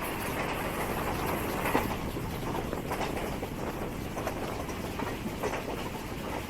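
Passenger train running along the track, heard from on board: a steady running noise with a few irregular clacks of the wheels over rail joints.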